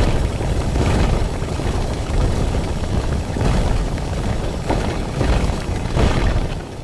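Storm of wind and heavy rain: a loud, steady rush of noise, heaviest in the low end, with small swells throughout.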